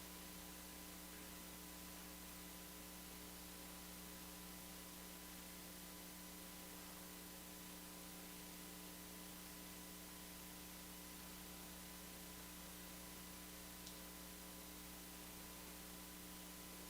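Near silence: a steady electrical hum over faint hiss, with one tiny click about fourteen seconds in.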